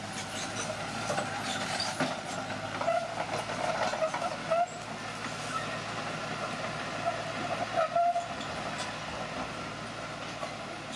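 Steel crawler tracks of a bulldozer squealing and clanking, the squeals coming and going over a steady engine hum.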